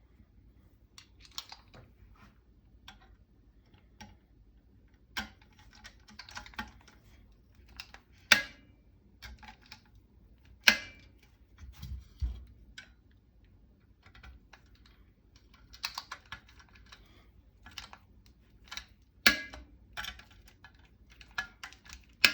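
A torque wrench with a T20 Torx driver tightens small screws into the rifle's rail and receiver, making light scattered clicking and rattling of metal tool on metal. Several sharp, louder clicks stand out, about 8, 11 and 19 seconds in and again at the very end, as the wrench reaches its 30 inch-pound setting on each screw.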